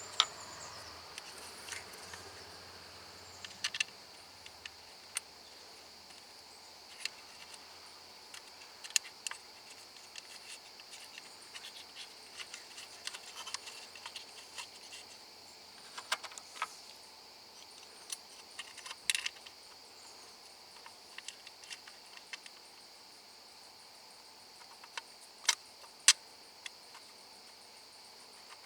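Insects trilling steadily at a high pitch, with scattered sharp clicks and taps throughout; the loudest clicks come about two-thirds of the way in and a little before the end.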